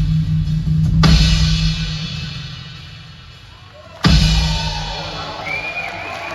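Live rock band playing loud: two sudden full-band hits with drums and cymbals, one about a second in and another about four seconds in, each ringing out and fading. A gliding melodic line rises over the band near the end.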